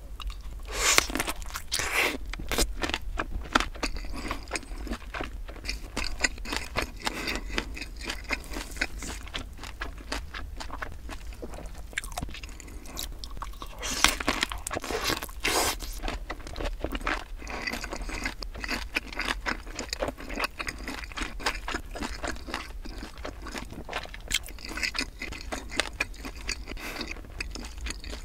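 Close-miked biting and chewing of a large kielbasa sausage: crisp bites through the skin about a second in and again around halfway, with chewing between.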